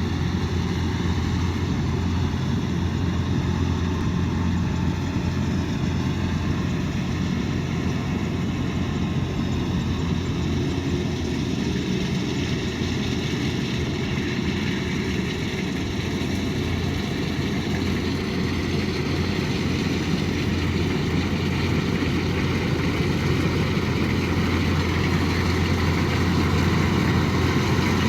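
Kubota DC108X combine harvester's diesel engine and threshing machinery running steadily with a deep hum, growing a little louder near the end.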